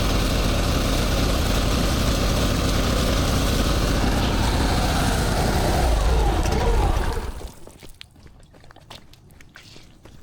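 Pressure-washing equipment running steadily: an engine-driven rig with spray hiss, which cuts off about seven seconds in. Faint scattered taps follow.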